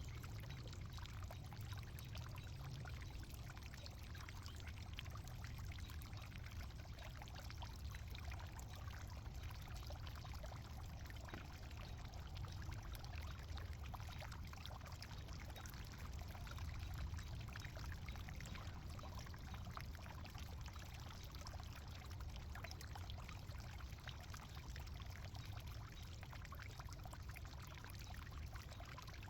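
Faint, steady rustling and trickling of loose soil being dug out of a potato grow bin, with a low rumble underneath.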